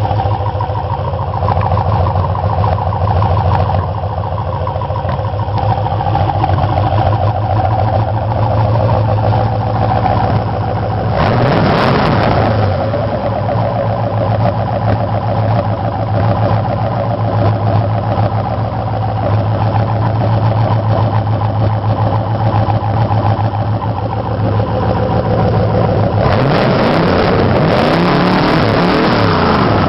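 Boat engine running steadily on a test stand, freshly tuned, with the throttle opened briefly twice: the engine speed rises and falls about eleven seconds in and again near the end.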